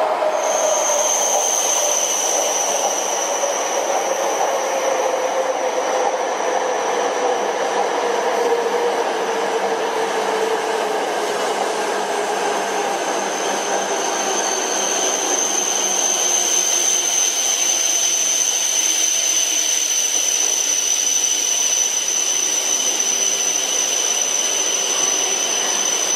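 E5 series Shinkansen bullet train running through a station at speed: a steady rush of air and rail noise with a high whine over it, and a lower hum that slowly drops in pitch over the first twenty seconds or so.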